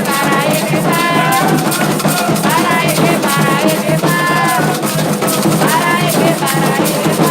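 Afro-Brazilian religious chant: voices singing a call-like melody over steady drums and rattles.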